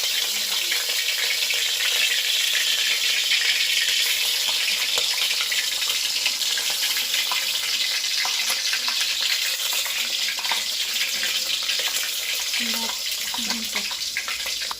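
Ground wet masala paste sizzling and crackling in hot oil in a pan as it is stirred. The sizzle is steady and eases slightly near the end.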